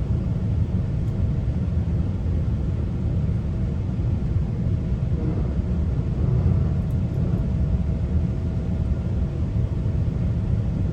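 GO Transit bilevel passenger train running between stations: a steady low rumble of the wheels on the track, with a faint steady hum over it.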